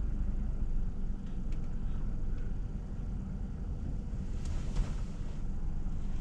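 Steady low rumble of a car running, heard through a GoPro, with a brief hiss about four and a half seconds in.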